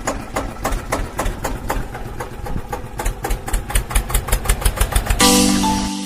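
Eicher tractor's diesel engine running with an even beat of firing pulses, quickening a little after about three seconds. Music comes in about five seconds in.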